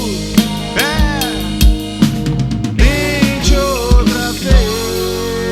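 Live band music, an instrumental passage of a reggae-style rock song: drum kit hits under melodic lines that bend up and down, settling into a sustained chord near the end.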